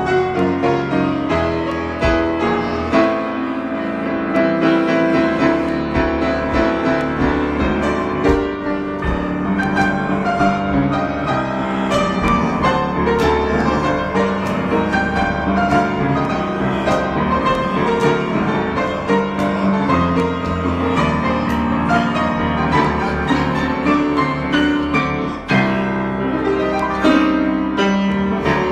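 Piano improvisation, played continuously with many overlapping notes and no pause.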